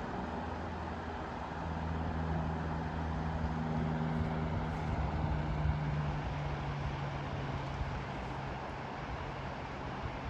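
A road vehicle's engine hum, getting louder around the middle and then fading, over a steady rush of traffic noise.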